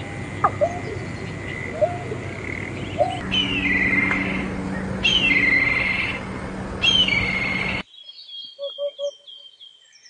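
Three bird recordings back to back. First, short rising calls of a painted snipe over a noisy background. Then a black kite gives three descending, whinnying whistled calls, and about two seconds from the end a hoopoe gives its low triple 'oop-oop-oop' hoot.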